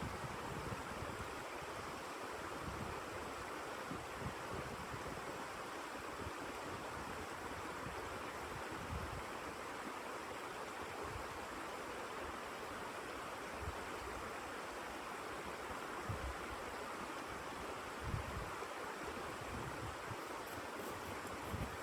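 Blizzard wind blowing steadily, with irregular low gusts buffeting the microphone.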